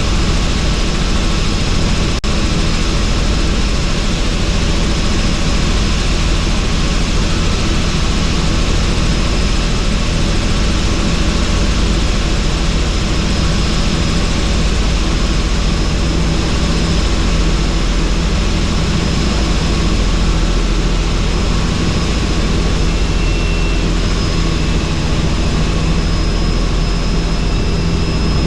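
Helicopter in flight heard from inside the open, doors-off cabin: steady rotor and engine noise under a dense rush of wind. A brief click about two seconds in.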